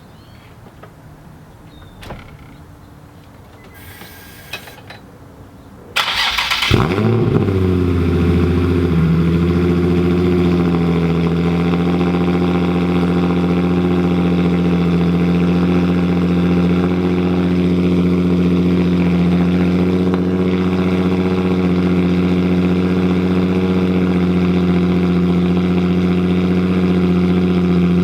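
Nissan 350Z's VQ35HR V6 starting for the first time through a Tomei Expreme Ti full titanium exhaust with test pipes (catalytic converters deleted). About six seconds in it cranks briefly, catches with a short rise in revs, and settles within a few seconds into a steady, loud idle.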